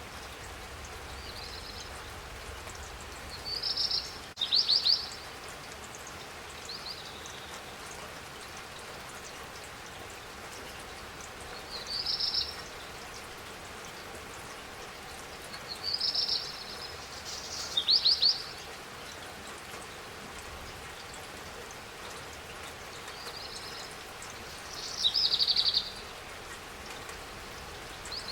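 Steady spring rain falling, with a bird calling over it in short, high chirping phrases every few seconds; the calls are louder than the rain.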